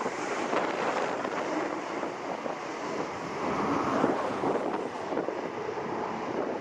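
Hurricane wind buffeting the microphone in gusts, a steady rushing that swells and dips.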